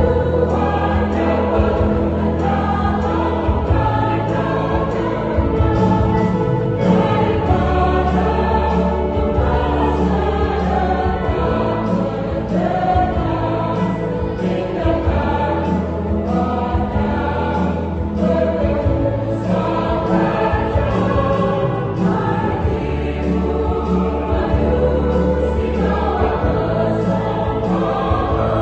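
Church choir singing a hymn in several parts, with low sustained bass notes underneath.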